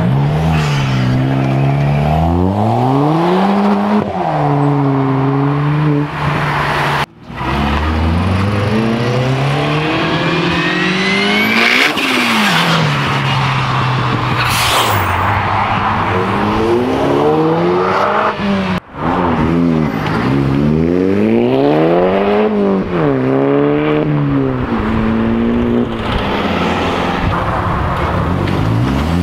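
Modified cars accelerating hard away one after another, each engine's note climbing steeply and then dropping back at every gear change.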